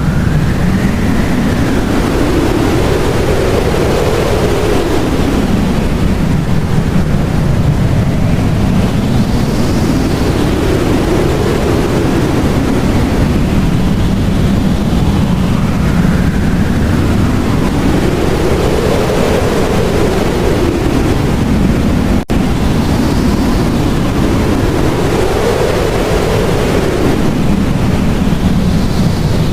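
Blizzard wind blowing hard and steadily, with gusts that swell and fall in pitch every few seconds, like a howl. It cuts out for an instant about 22 seconds in.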